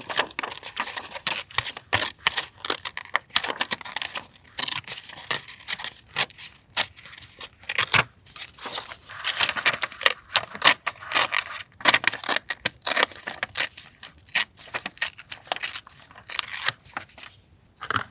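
Paper and stickers being handled for a vintage journal collage: rustling, crinkling and tearing, with many sharp clicks and taps.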